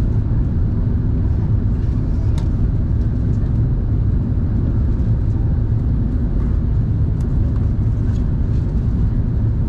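Steady low rumble inside an Airbus A380 cabin: engine and airflow noise with a faint steady hum, and a couple of faint ticks.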